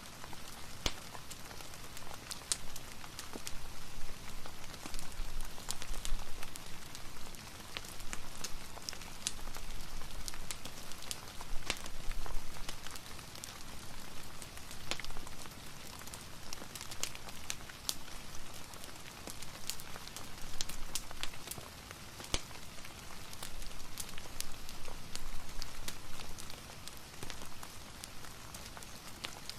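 Steady rain falling, mixed with a crackling fireplace, with many scattered sharp ticks and pops over an even hiss. The loudness swells and eases gently.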